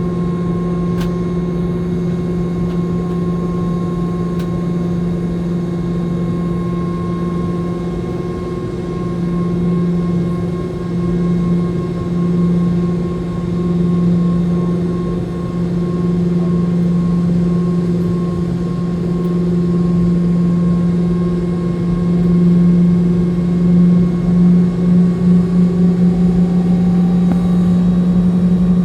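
Boeing 717-200's rear-mounted Rolls-Royce BR715 turbofan engines heard from inside the cabin: a steady low hum with a fainter higher whine. Near the end it grows louder and starts to pulse, as the engines change power for takeoff.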